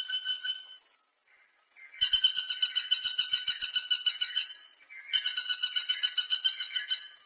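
Woodpecker calling: a fast rattle of repeated high notes, about nine a second, in three bursts. The first burst trails off in the first second, the next two last two to three seconds each, with short silent gaps between them.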